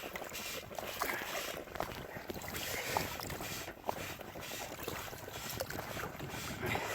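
Water and wind noise aboard a small boat under way: a steady rushing hiss with scattered small splashes against the hull.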